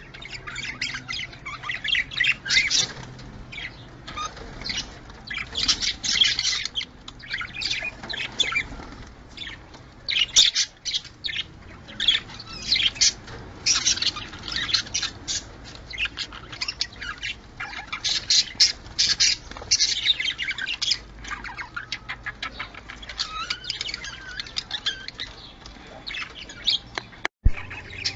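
Budgerigars chattering continuously with rapid chirps, warbles and squawks. A sharp click and a brief dropout come near the end.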